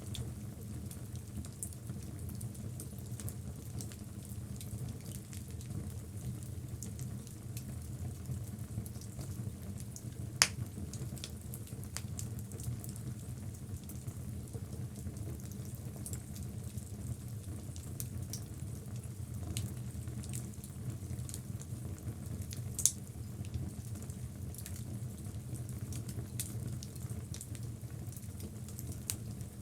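Logs burning in a fireplace: a steady low rumble of flames with constant small crackles, and two sharp, loud pops, one about a third of the way in and another about three quarters through.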